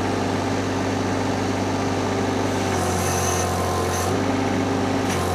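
Vmeng VM1000 mini skid steer's engine running steadily while the machine holds about 2,000 pounds of concrete block on its pallet forks. A brief hiss joins in about three seconds in, and the engine tone shifts slightly just after.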